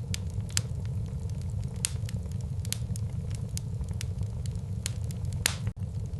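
Wood fire burning in a fireplace: a steady low rumble of flame with frequent sharp crackles and pops of the burning logs. The loudest pop comes near the end, followed by a split-second gap in the sound.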